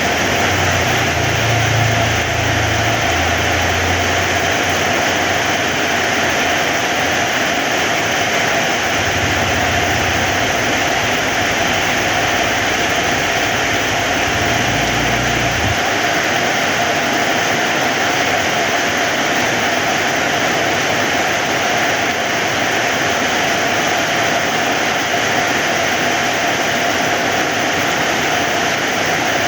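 Heavy rain falling steadily, an even hiss, with a low rumble underneath that stops suddenly about halfway through.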